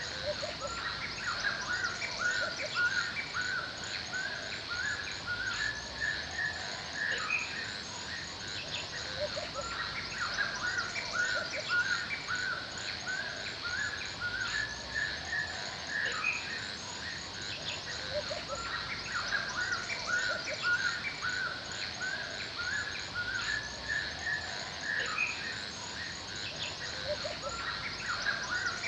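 Forest ambience: several birds chirping and singing continuously in short, quickly repeated notes, over a steady high-pitched drone.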